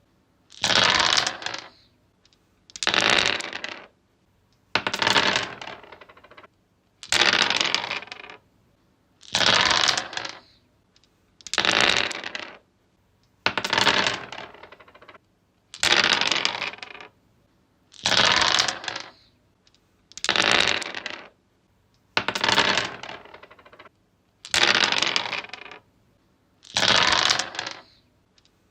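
Dice rolled again and again on a wooden surface. Each roll is about a second of rattling clatter that tumbles to a stop, and a new roll comes roughly every two seconds, thirteen in all.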